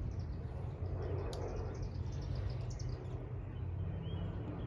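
Small birds chirping repeatedly in high, quick notes over a steady low rumble, with one sharp click about a second in.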